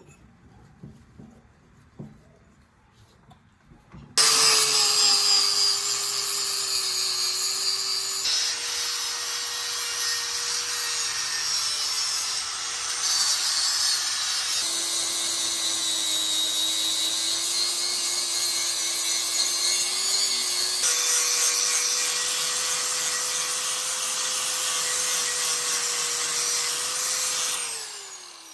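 Electric grinder running and grinding steel, starting suddenly about four seconds in, with a steady hiss over the motor's tone. The pitch steps a few times, and the motor winds down near the end.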